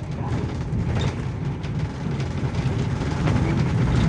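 A vehicle running with a steady low rumble and road or track noise.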